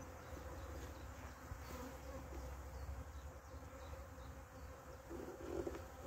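Honeybees of a freshly hived swarm buzzing, a faint steady hum with a brief louder buzz near the end as bees come close.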